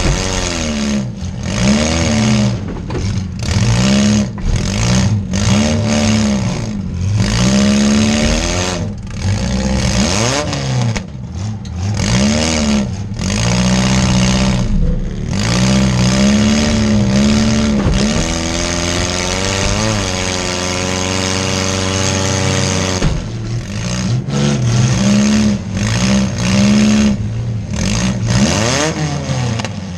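Compact demolition derby car's engine heard from inside the gutted cabin, revving up and falling back over and over as the car drives back and forth, holding a steadier note for a few seconds past the middle.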